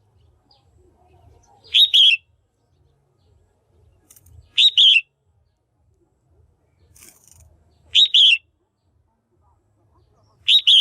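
Female red-whiskered bulbul calling: a short, loud double note repeated about every three seconds, four times.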